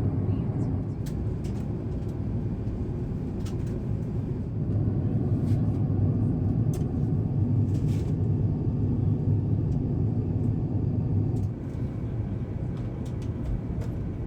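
Airbus A350-1000 cabin noise during descent: a steady low rumble of airflow and engines. It swells about four to five seconds in and drops off suddenly a few seconds before the end.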